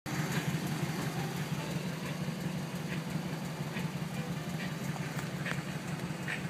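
1982 Chevrolet El Camino's engine idling steadily, a continuous low hum.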